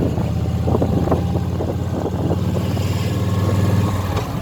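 Motorcycle engine running at low, steady revs.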